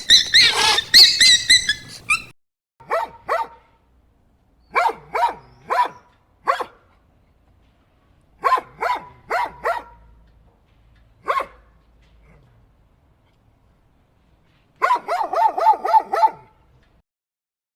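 A dog barking in short sharp barks: a quick flurry at the start, then barks singly and in groups of two to four with pauses between, and a rapid run of barks near the end.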